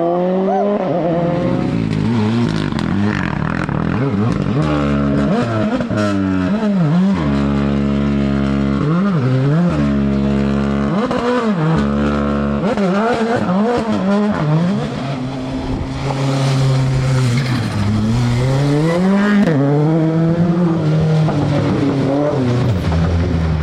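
Rally car engine under hard driving, revs climbing and dropping sharply again and again through gear changes and lifts, held steady at high revs for a few seconds in the middle.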